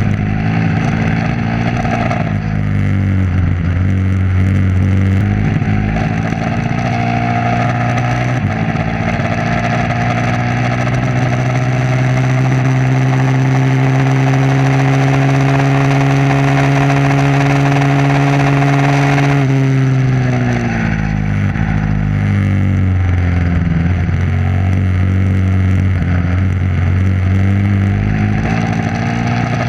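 Motorcycle engine being ridden hard, its revs climbing and dropping with gear changes. It holds a nearly steady, slowly rising pitch for about ten seconds, then falls away sharply about twenty seconds in and picks up again.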